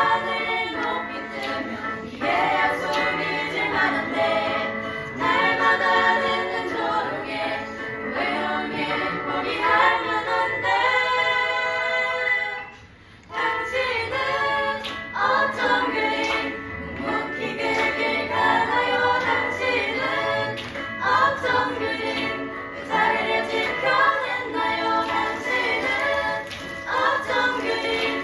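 A small group singing a Christian praise song together, with a short break in the singing about thirteen seconds in.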